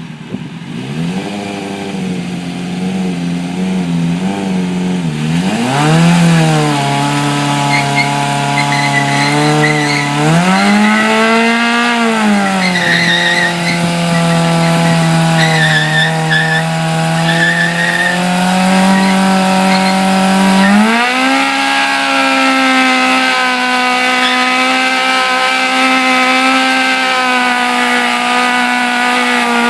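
Kawasaki ZX-6R 636's inline-four engine revved hard during a burnout: a few quick blips, then held at high revs, the pitch climbing at about six seconds, swelling and dropping back around eleven seconds, and stepping up again at about twenty-one seconds. Rear tyre squeal chirps over the engine from about eight to eighteen seconds.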